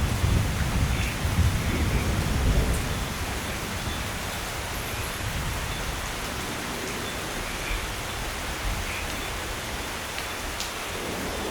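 Steady rain hissing, with the low rumble of thunder dying away over the first three seconds or so.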